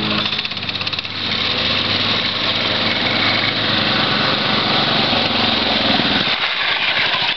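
Small mini bike engine running, with its low note dropping away about six seconds in.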